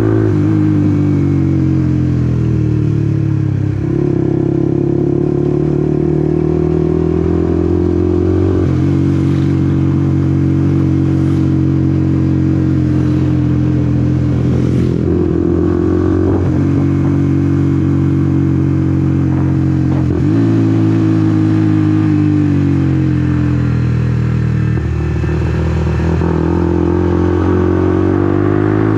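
Honda CBR150R's single-cylinder engine running under way, its pitch falling over the first few seconds, then holding steady with several changes in engine speed along the ride.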